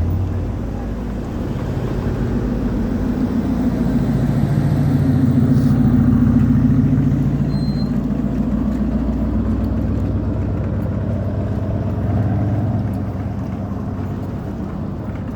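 A motor vehicle engine running, growing louder toward the middle and then easing off again.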